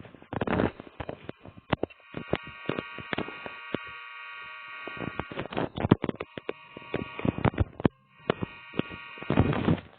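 Diesel locomotive horn sounding a long steady chord-like blast of several seconds, then a short second blast, as the locomotive departs. Bumps and crackles on the microphone run throughout.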